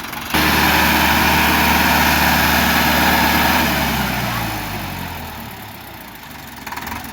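Tractor engine running hard at high revs, starting abruptly. After about three and a half seconds the revs fall away and the engine fades.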